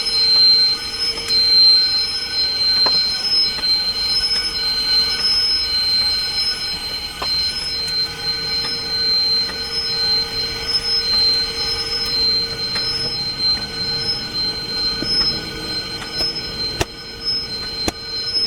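A continuous high-pitched mechanical squeal or whine made of several held tones, pulsing slightly in strength, with a few faint clicks.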